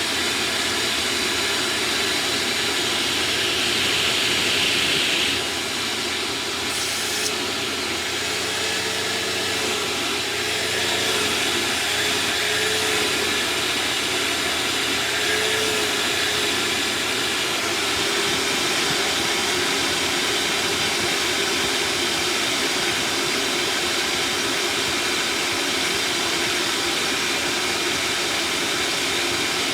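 Old shop vacuum running steadily with a loud rushing hiss of suction. In the middle stretch the pitch of the airflow briefly wavers up and down several times.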